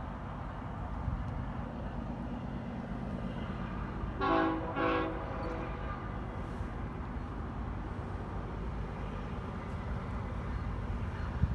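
Train horn sounding two short blasts about four seconds in, over the steady low rumble of a train.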